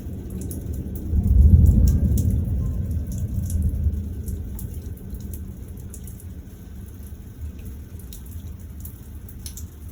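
Thunder rumbling during a thunderstorm: a low roll swells about a second in and dies away over several seconds. Rain patters steadily throughout, with drops ticking close by.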